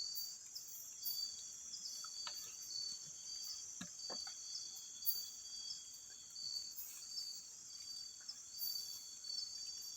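Insects chirring steadily: a continuous high drone with a repeating chirp a little lower in pitch, and a few faint clicks about two and four seconds in.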